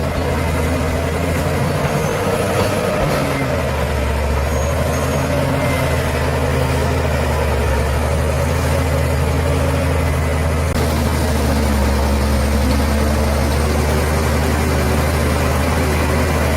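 A bulldozer's large diesel engine running with a deep, steady drone; its note shifts slightly lower about four seconds in.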